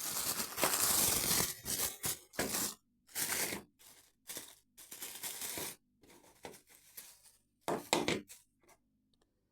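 Plastic packaging being torn open and crinkled by hand, in irregular bursts, loudest in the first second and a half, stopping shortly before the end.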